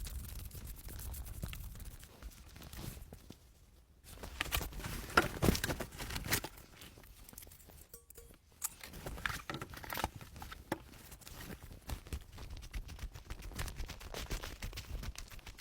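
Irregular rustling, crinkling and scraping with small clicks and knocks, the sound of things being handled, broken into short takes with brief quiet gaps.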